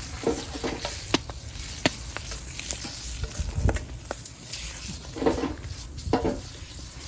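Food sizzling in a large iron frying pan over a wood fire, with a spatula stirring and scraping it and a few sharp clinks of metal on the pan.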